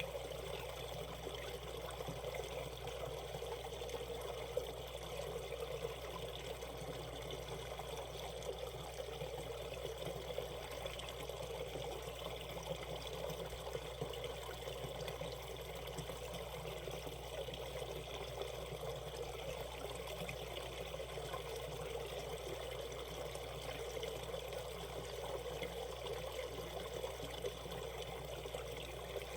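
Shallow valley stream running over rocks, a steady, unbroken rush and trickle of water.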